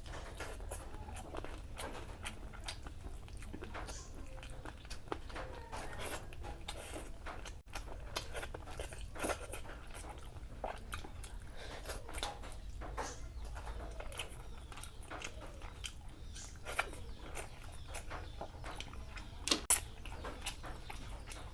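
Close-miked eating: a person biting and chewing food, a steady run of irregular wet clicks and crunches, with two louder clicks close together near the end.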